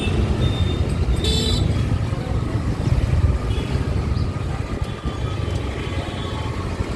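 Steady low road and wind rumble from riding a vehicle through town traffic. A short vehicle horn toot comes about a second in, and fainter horns sound later.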